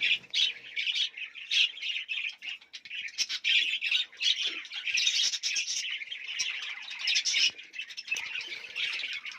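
A colony of budgerigars chattering and squawking all at once, a dense, continuous run of short, sharp calls.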